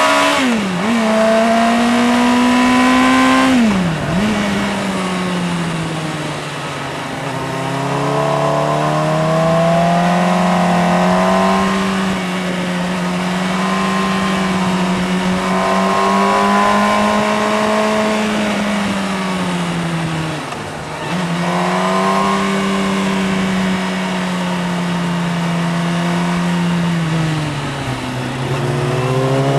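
Motorcycle engine running under way. The revs rise and fall steadily, with brief sharp drops about a second in, around four seconds, near two-thirds through and near the end, like gear changes or throttle lifts.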